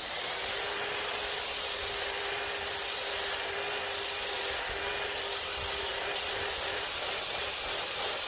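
Variable-speed angle grinder running steadily with a 320 buffing wheel pressed against stainless steel flat bar, polishing it: a steady motor whine over an even hiss.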